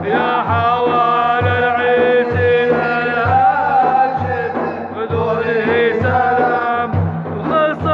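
Madih, an Arabic Islamic praise song, chanted by a male singer in long held notes that waver and bend, over a low drum beat about once a second.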